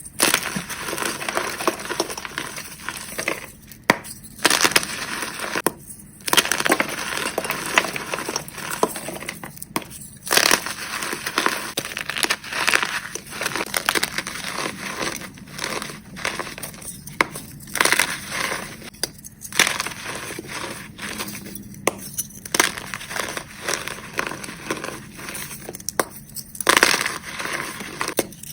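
Gym chalk reforms (pressed blocks of chalk) being crushed and crumbled, a dense run of crisp, crackly crunches with brief pauses between squeezes.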